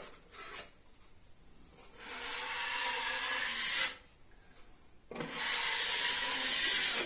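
A hand tool scraped across a filled plasterboard joint in two long strokes of about two seconds each, after a few short scrapes, smoothing the filler.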